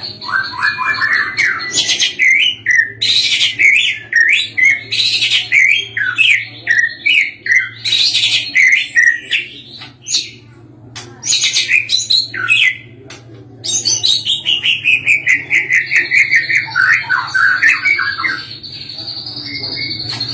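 White-rumped shama (murai batu) singing hard: a rapid, varied run of loud whistled phrases that slide up and down, with a short pause about ten seconds in, a long falling series of notes after it, and a held high whistle near the end. A steady low hum runs underneath.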